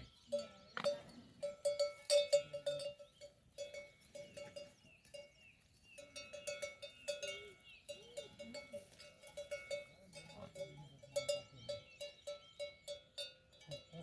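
A livestock bell clanking irregularly: runs of quick metallic strikes with short pauses between them.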